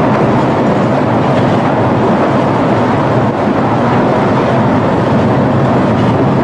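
A tour train running with a loud, steady rumble and a low engine hum. It starts and stops abruptly.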